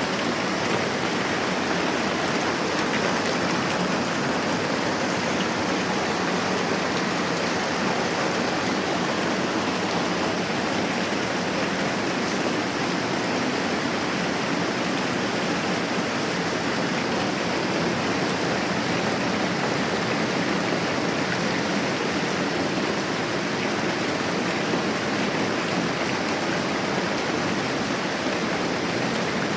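Moderate rain falling in a steady, even hiss that does not let up.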